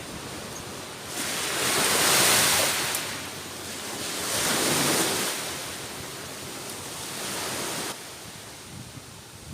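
Surf and gusting wind on a beach, a steady rush of noise that swells loudly twice and once more weakly before dropping off sharply near the end.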